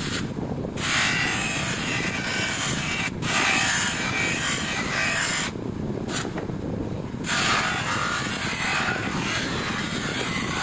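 Electric polishing motor running steadily, with a hissing rub in long stretches as the metal footpeg is pressed against the spinning wheel, eased off for a moment in between.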